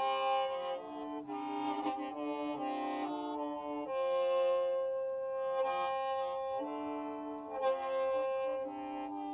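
Hmong qeej, a bamboo free-reed mouth organ, being played: several reed tones sound together as chords that shift every second or so, with one chord held for a couple of seconds in the middle.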